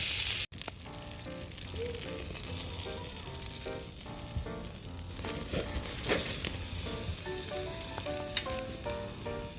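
Food sizzling and frying in a pan, loud for the first half second, then cut off sharply and carrying on more quietly. Light instrumental music plays over it.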